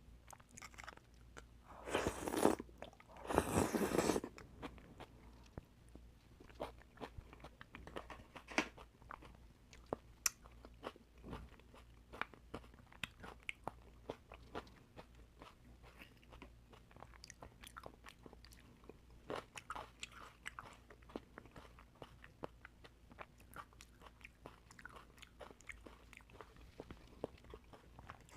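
Close-miked eating of oysters: two louder, noisy bursts about two and three and a half seconds in, then steady chewing with many small wet clicks.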